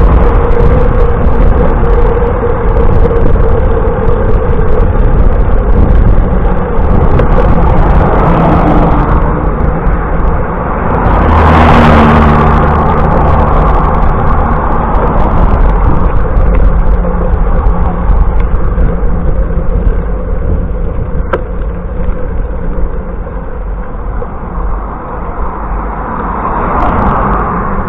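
Steady rushing wind and road noise on a microphone riding along with a bicycle, with a motor vehicle passing about twelve seconds in.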